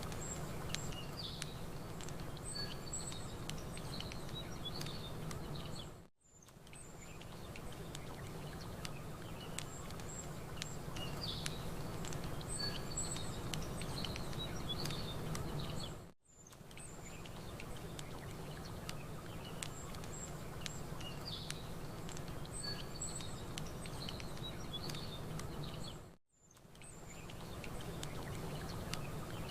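Campfire ambience: a fire crackling with small sharp pops while birds chirp, over a steady low rumble. It is a short loop that dips briefly to silence about every ten seconds.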